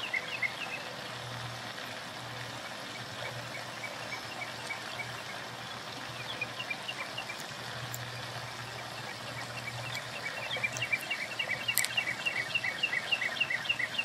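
A small songbird calling in a series of short, sharp repeated notes over a steady background hiss. There are a few notes at the start, a scattering in the middle, then a faster, louder run of about four notes a second from about ten seconds in.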